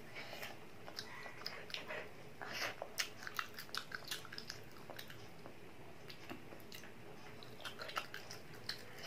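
A child biting and chewing small pieces of fried chicken, with irregular short mouth clicks and smacks.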